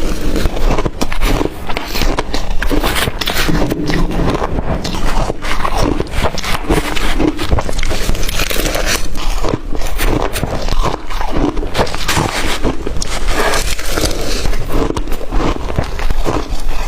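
Blender-crushed ice being bitten and chewed: a dense, steady run of crunching and crackling as the ice breaks between the teeth.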